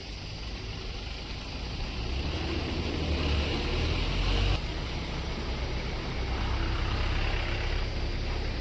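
Highway traffic noise: a heavy road vehicle rumbling past with tyre hiss, growing louder for a couple of seconds and dropping off abruptly about halfway through. A steady traffic rumble continues after the drop.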